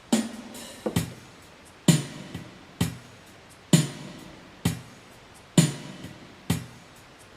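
Yamaha PSR-350 keyboard playing one of its ballad accompaniment styles: a slow drum-machine beat, about one hit a second, with backing instruments between the hits.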